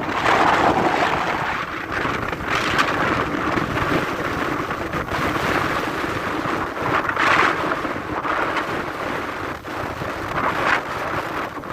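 Storm at sea aboard a ship: wind buffeting the microphone over the rushing noise of rain and waves, swelling in gusts every few seconds.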